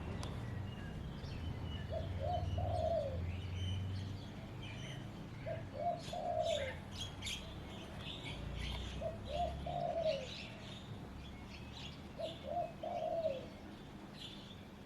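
Birds calling: a low three-note phrase, two short notes and a longer one, repeated four times about every three and a half seconds, over scattered higher chirps from smaller birds.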